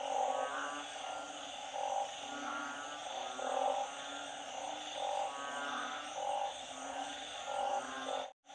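Chorus of frogs calling after a storm: repeated croaking calls about once a second, overlapping, over a steady high-pitched background chorus. The sound cuts out for a moment near the end.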